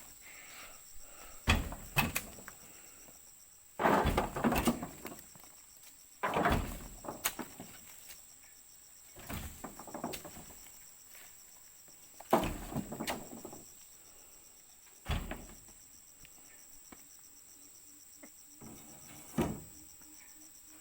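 A series of heavy thuds, about eight in all a few seconds apart, some followed by a short clatter: oil palm fruit bunches being thrown down onto a load.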